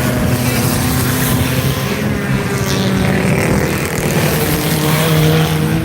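Several stock car engines running at racing speed on the track, a loud, continuous drone whose pitch shifts a few times as cars change speed.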